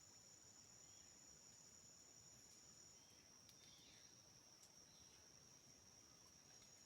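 Faint, steady, high-pitched insect chorus, one of two shrill bands dropping out for a few seconds in the middle, with a few faint ticks.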